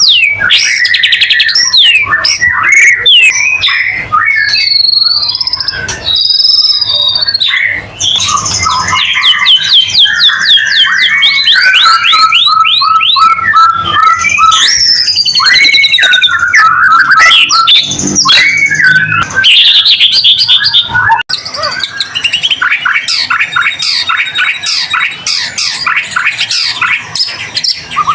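White-rumped shama singing vigorously without a break: a rich, loud run of clear whistles, slurred up-and-down glides and fast trills. About two-thirds of the way through it shifts to a denser stretch of rapid chattering trills.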